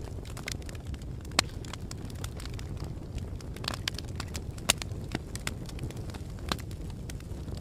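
Fire crackling: a steady low rumble with sharp pops and snaps at irregular intervals, two louder pops about a second and a half in and near the middle.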